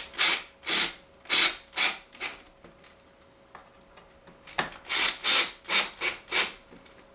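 Two runs of rhythmic back-and-forth scraping strokes, about six in each run, at roughly two to three a second, with a pause of about two seconds between the runs.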